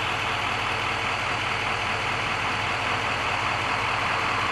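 A steady, unchanging engine-like drone with a hiss over it.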